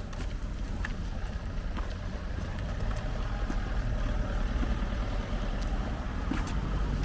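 Motor vehicle engine running, a steady low rumble that grows a little louder partway through.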